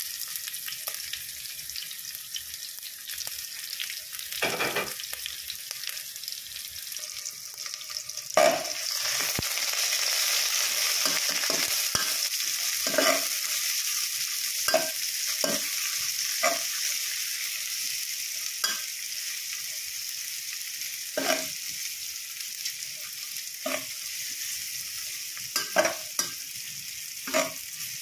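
Sliced shallots, garlic, lemongrass and chillies sizzling in hot oil in a non-stick pot, stirred with a spatula that scrapes and knocks against the pot now and then. The sizzle swells about eight seconds in and stays louder for several seconds.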